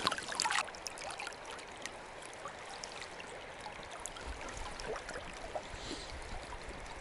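Small river flowing over stones: a steady wash of running water, louder for the first half-second, with a few faint clicks.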